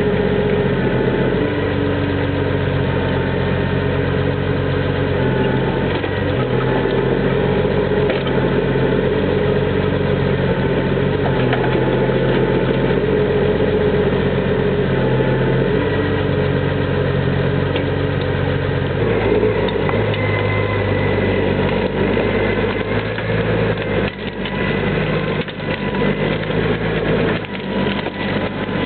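Valtra T131 tractor's diesel engine running, its pitch stepping up and down several times as the load changes, then dropping to a lower, steadier speed about two-thirds of the way through. A few short knocks come near the end.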